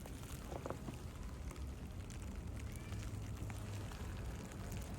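Steady hiss of a heavy snowstorm outdoors, with a low rumble that grows louder near the end.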